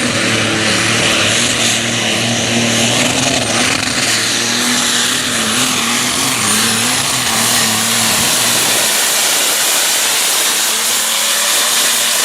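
A loud pulling tractor's engine running steadily. The lowest part of its sound drops away about nine seconds in.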